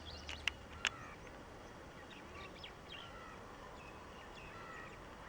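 Birds chirping faintly, short scattered calls over quiet background noise, with two sharp clicks in the first second.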